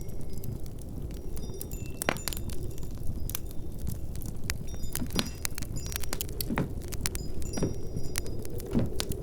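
Wood fire crackling with many sharp pops over a steady low rumble, mixed with light clinks of glass or metal from household activity.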